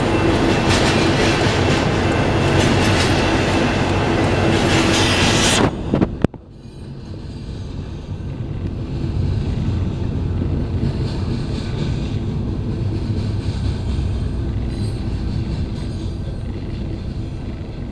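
Double-stack freight train rolling past with loud wheel-on-rail noise and clickety-clack. About six seconds in the noise cuts off abruptly, leaving a quieter, steady rumble that slowly grows louder again.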